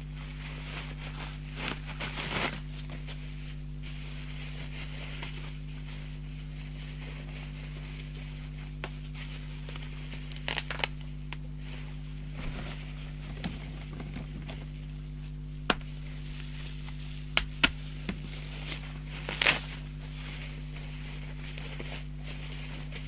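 Packing material being unwrapped by hand: intermittent rustling and crinkling with scattered clicks and knocks, the loudest bursts about 2, 10, 17 and 19 seconds in. A steady low electrical hum runs underneath.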